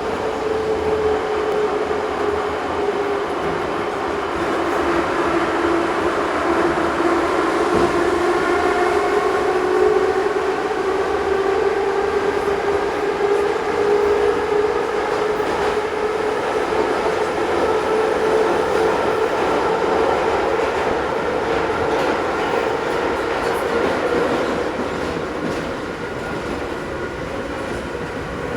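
Ezh3 metro train running between stations: steady wheel and rail noise with a traction-motor whine whose pitch dips over the first several seconds and then slowly climbs again as the train's speed changes.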